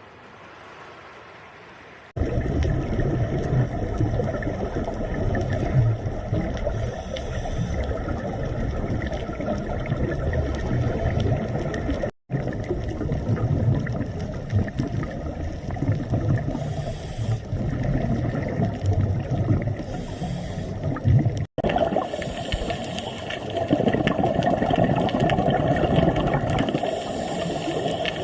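Rushing, splashing water: loud, even noise with no clear tone. It starts suddenly about two seconds in and breaks off abruptly twice, about twelve and twenty-one seconds in.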